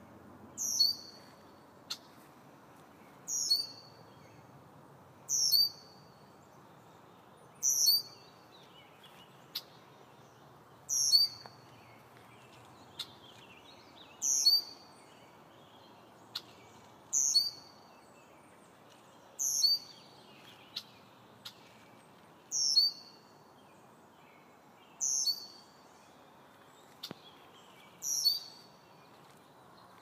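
A single bird repeats a short, high call that drops in pitch, about every two and a half to three seconds, over a faint steady background hiss, with a few sharp ticks in between.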